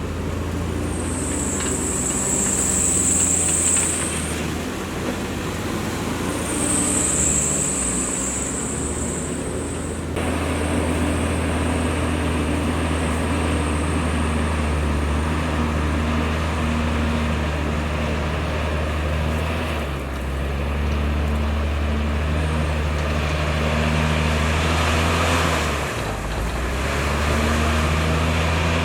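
Diesel engine of heavy earthmoving machinery running steadily, its pitch shifting up and down as the load changes. A high-pitched squeal sounds twice in the first ten seconds, each lasting about three seconds, and a louder rush of noise comes about four-fifths of the way through.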